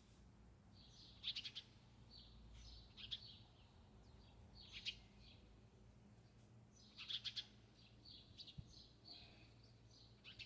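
Songbirds chirping faintly: short bursts of high chirps and quick trills, repeated about five times with pauses between, over a faint steady low hum.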